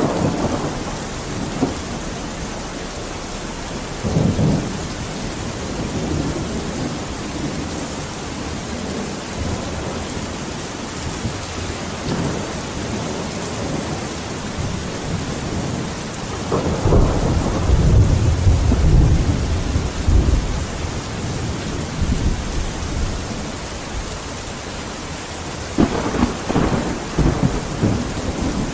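Steady heavy rain, with rolls of thunder: a short rumble about four seconds in, a long deep roll in the middle, and a sharper crackling peal near the end.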